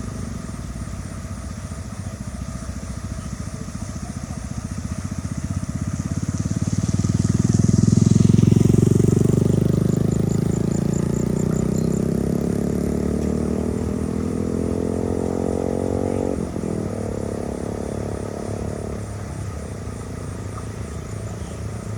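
An engine running steadily. It swells louder about a third of the way in, then its pitch climbs gradually as it revs up, until it drops back about three quarters of the way through.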